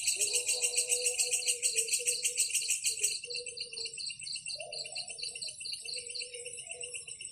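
Insects chirping in fast, even pulses, about seven a second; the loudest one stops about three seconds in while a fainter pulsing insect carries on. A soft wavering low tone runs underneath.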